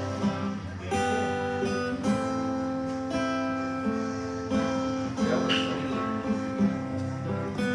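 Acoustic guitar played in ringing chords, a new chord or note picked about once a second.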